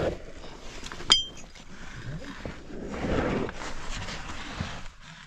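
A single sharp metallic clink with a brief ring about a second in, then scuffing and shuffling of a caver moving over rock.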